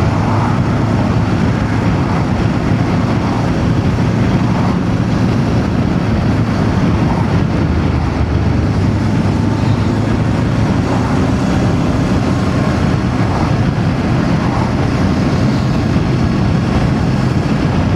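Voge DS525X parallel-twin motorcycle engine running at a steady cruise, mixed with constant wind rush and wet-road tyre noise.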